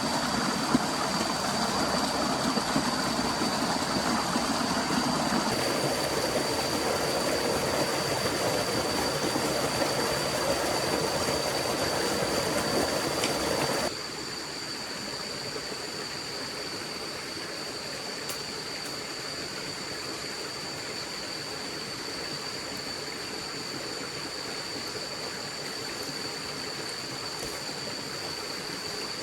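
A forest stream flowing steadily, with a thin, steady high tone above it. About halfway through the water sound drops abruptly quieter and duller, as if cut to a different spot.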